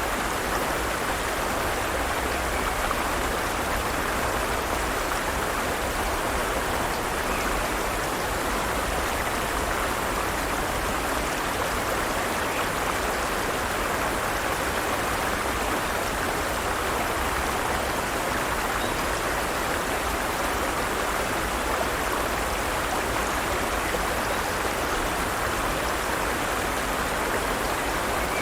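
Forest stream running steadily over rocks, an even rushing of flowing water.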